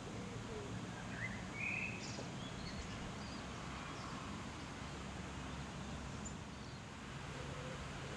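Outdoor ambience of a steady low rumble with a few short bird chirps, the loudest about one and a half to two seconds in and a faint one around six seconds.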